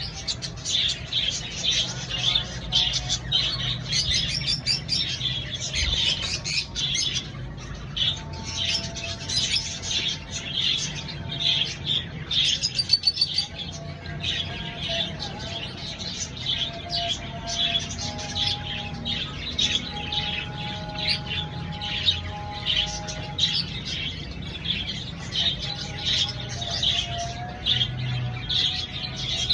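Lovebirds chirping and chattering in a quick, continuous stream of short, high-pitched calls.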